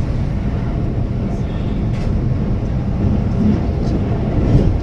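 Keihan limited express electric train running along the line: a steady low rumble of wheels on rail and the running gear.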